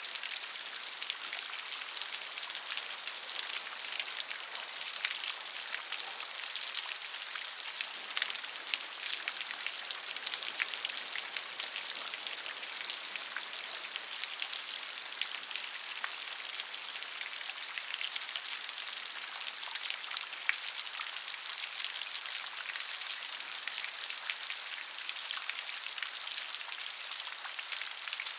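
Steady rain, a continuous hiss of many fine drops with frequent separate light drop hits.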